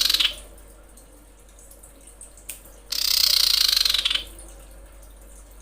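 Common iora (cipoh), female, giving harsh, hissing rasps as a call to males. One rasp ends just at the start, and another lasting over a second comes about three seconds in.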